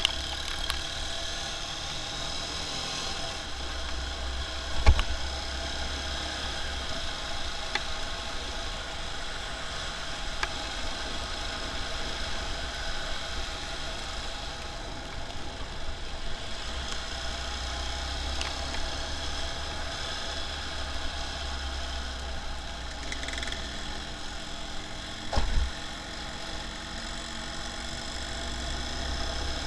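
Engine and traffic noise heard from a motorcycle riding through city traffic: a steady bed of engine and road noise with a low rumble that comes and goes, and two brief thumps, about five seconds in and near the end.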